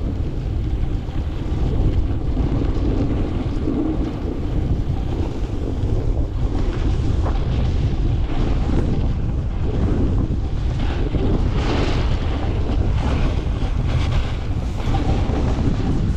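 Heavy wind buffeting the microphone on a fast downhill run, with the hiss and scrape of edges carving the snow becoming more prominent about six seconds in.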